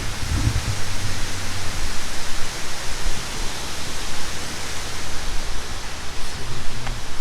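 Steady rushing of running water, loud and even, with a low rumble underneath.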